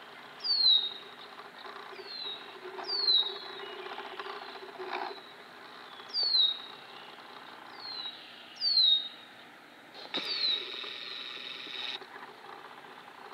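A songbird repeating a short, high whistled note that slides down in pitch, about once every second or two, some notes much louder than others.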